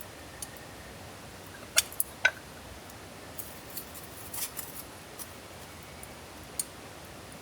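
Wood campfire crackling: scattered sharp pops and snaps, a cluster about two seconds in and more later, over a steady soft hiss.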